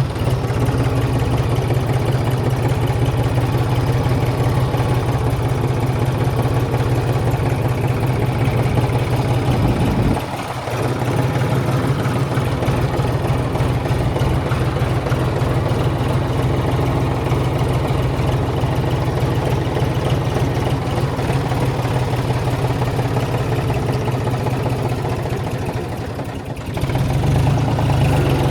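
Tractor's diesel engine running steadily, with two brief dips in level: one about ten seconds in and one near the end.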